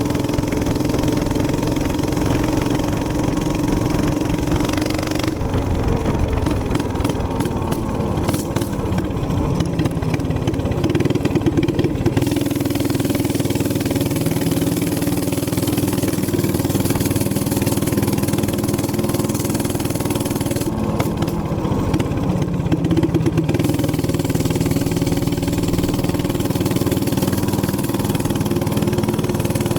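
Gas minibike's small single-cylinder engine running at speed under way. It eases off about five seconds in and again about twenty-one seconds in, each time pulling back up to a steady drone a few seconds later.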